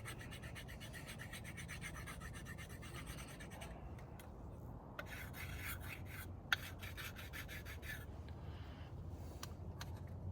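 Chalk being rubbed onto a wooden turkey box call in quick back-and-forth scraping strokes, in two bouts, with one sharp click partway through. Chalking conditions the call before calling.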